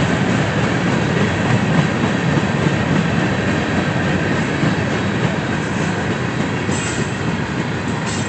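Train cars rolling past on the rails: steady noise of steel wheels on track, with brief high-pitched wheel squeaks near the end.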